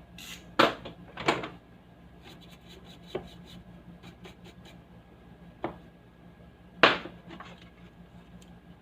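Sharp clicks and knocks of parts being handled: five louder knocks, the last the loudest, and a quick run of light ticks in the middle, over a steady faint low hum.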